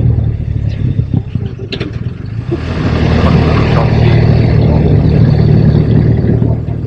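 BMW R 1250 RT motorcycle's boxer-twin engine running on the move, with wind noise. It eases off about a second in, pulls stronger again from about two and a half seconds, and drops away near the end.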